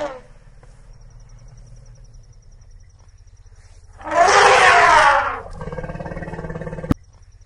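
A large animal's loud, harsh roar-like call about four seconds in, lasting about a second and a half and falling in pitch, followed by a lower steady drone that ends in a sharp click.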